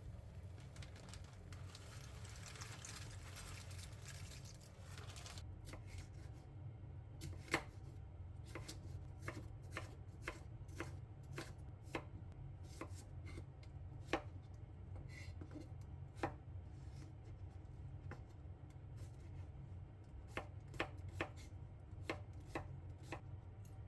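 Knife chopping on a cutting board in slow, separate strokes, roughly one a second with a pause in the middle, after a few seconds of soft rasping noise. A low steady hum runs underneath.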